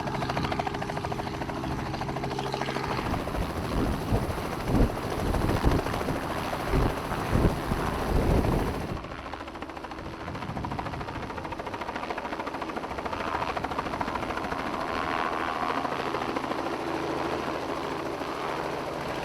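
Helicopter's engine and rotor running steadily. Wind gusts on the microphone about four to nine seconds in.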